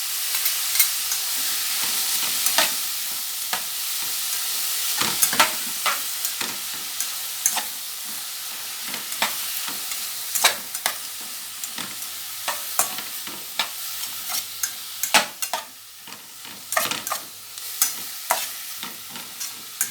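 Vegetables (carrot, cucumber, bell pepper, string beans, sweet corn) sizzling as they stir-fry in hot oil in a pot, with frequent sharp clicks and scrapes of a utensil stirring against the pot. The sizzle is strongest at first and eases off somewhat after about eight seconds.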